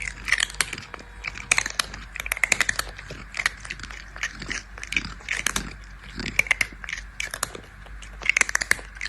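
Rapid, irregular crunching and crackling clicks, like something crisp being chewed or crushed, with denser clusters at several points.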